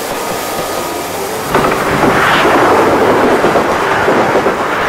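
A train of passenger coaches passing close at speed: a rushing rumble and clatter of wheels on rail that swells suddenly about a second and a half in and stays loud.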